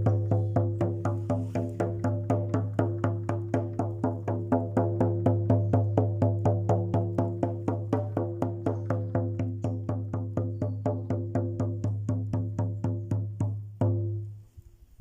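Hand drum beaten in a fast, even rhythm, about four to five strokes a second, with a low ringing hum beneath the beats. Near the end comes one harder stroke, and the drumming stops.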